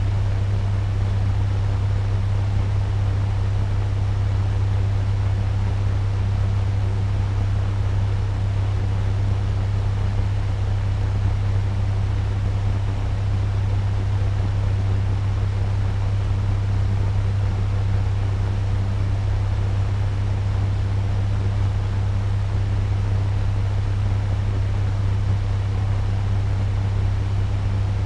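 Turbo fan running steadily at medium speed: a constant low hum under an even rush of air.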